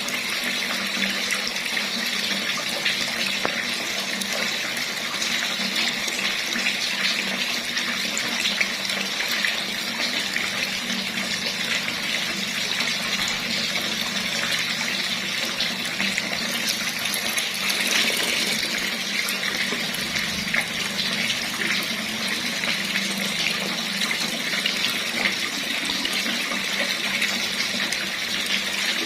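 Tap water running steadily and splashing.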